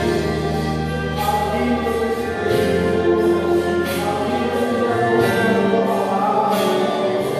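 Gospel hymn sung by a choir over sustained instrumental chords.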